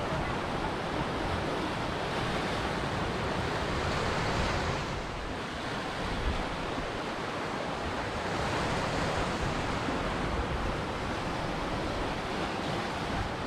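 Ocean surf: waves breaking and washing ashore in a continuous rush, swelling twice.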